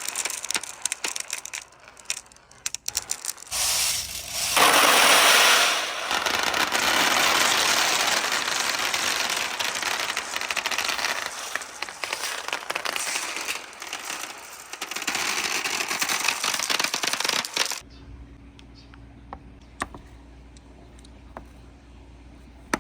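Many marbles clattering and rolling down a wooden marble run as a dense run of clicks, swelling to a loud rush about five seconds in. Near the end it cuts off suddenly to a low hum with a few scattered clicks.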